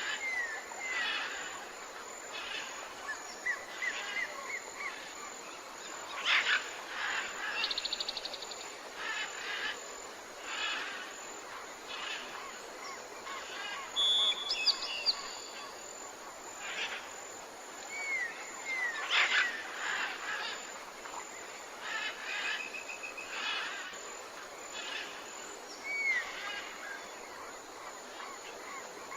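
Tropical forest ambience: many birds calling, with short curved whistled notes, chirps and a fast trill, over a steady hiss.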